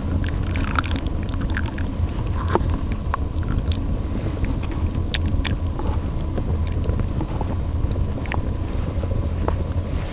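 Steady low rumble of wind buffeting the microphone, with scattered small crackles and ticks over it.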